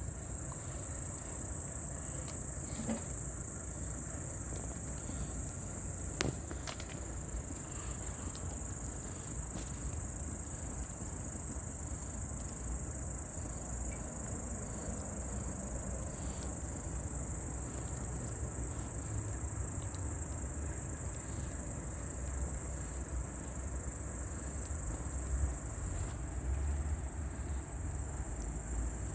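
Crickets chirping in a steady, continuous high trill over a campfire crackling, with scattered sharp pops, one clearly louder about six seconds in, and a low rumble underneath.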